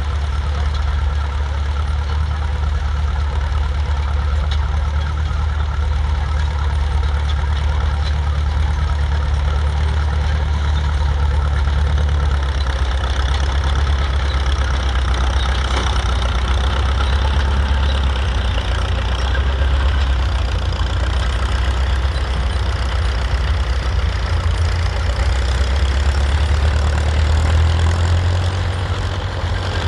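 Vintage tractor engine running steadily with a deep, even note.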